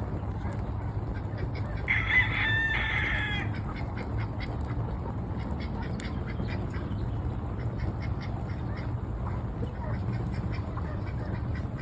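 A rooster crows once, about two seconds in, over ducks quacking repeatedly in the background. A low steady hum runs underneath.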